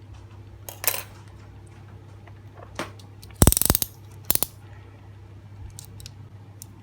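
Metal clicks and rattles from handling a scissor-style eel-catching tong: a few single clicks, then a loud quick run of clicks about three and a half seconds in and another short one just after.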